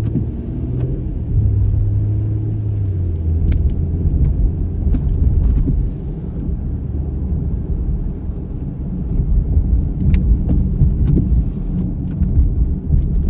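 Car engine and road rumble heard from inside the cabin while driving, with a few faint ticks.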